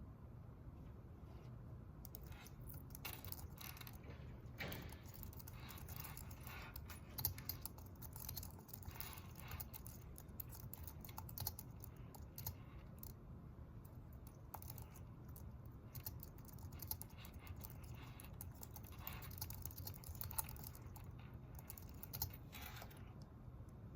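Typing on a computer keyboard: a run of quick, irregular key clicks that starts about two seconds in and thins out near the end, over a steady low room hum.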